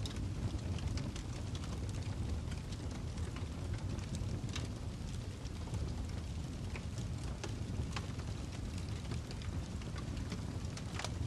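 Wood logs burning in a fireplace: a steady low rumble from the flames, with scattered sharp crackles and pops from the burning wood, a few of them louder than the rest.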